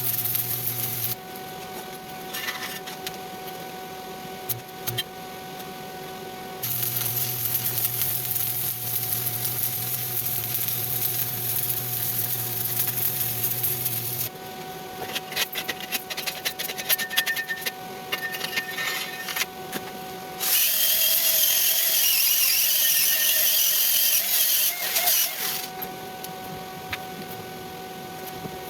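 Stick-welding arc crackling and sputtering in stretches, alternating with the welding machine's low electrical hum. About two-thirds of the way in comes a louder, steady whirring stretch of several seconds.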